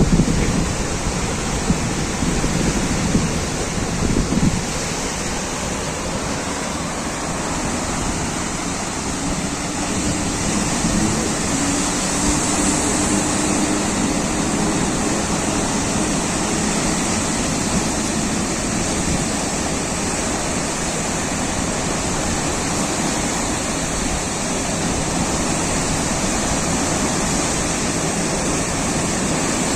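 Sea waves and surf washing steadily, with gusts of wind hitting the microphone in the first few seconds.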